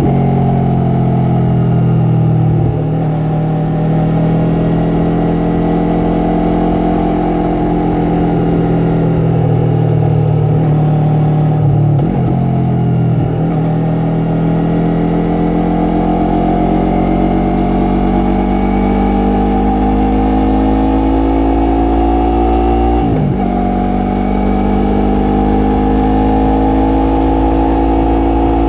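Yamaha MT-03 parallel-twin engine and exhaust running under way, its pitch slowly climbing and falling with the throttle. There are three short breaks, about 3, 12 and 23 seconds in, where the pitch drops sharply and then picks up again.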